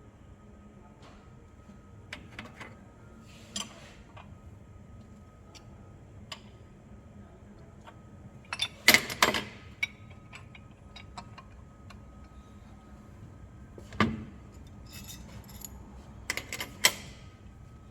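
Metal hand tools clinking and clattering as they are handled and set down, with scattered light clicks and a few louder clanks about halfway through, again a few seconds later, and near the end.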